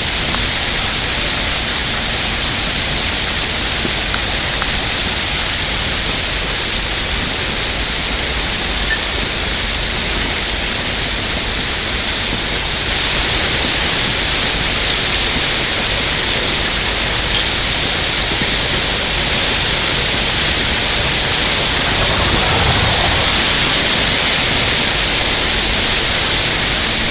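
Hailstorm: hailstones larger than pea-size pelting down in a dense, steady rush of impacts, growing a little louder about halfway through.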